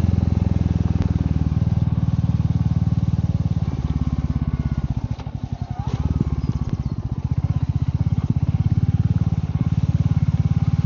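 Royal Enfield Meteor 350's single-cylinder engine running steadily on the move, with a fast, even exhaust pulse. Its sound dips briefly about five seconds in, then picks up again.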